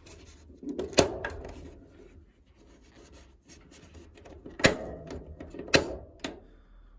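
Handling noises: rubbing and rustling, with three sharp clicks or knocks, one about a second in and two close together near the end.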